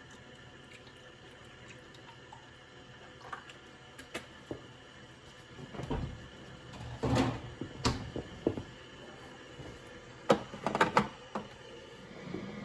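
Scattered clicks, knocks and handling noises of plastic containers and lids as milk and instant coffee are loaded into an espresso machine. The noises come in two busier clusters, about halfway through and again near the end.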